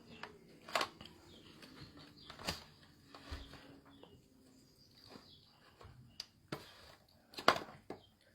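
Close-up eating sounds of Dungeness crab: scattered sharp cracks and clicks of the shell being broken and bitten, with louder snaps near the end.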